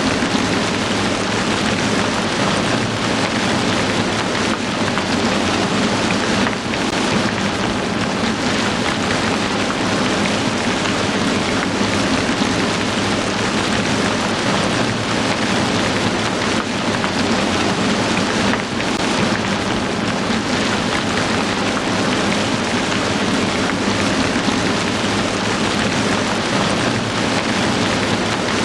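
Heavy rain falling steadily: a dense, even hiss of downpour with no pauses or separate events.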